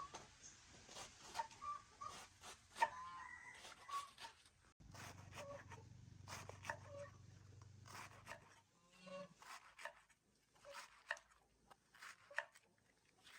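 Chickens clucking faintly in short calls, among scattered light clicks and knocks.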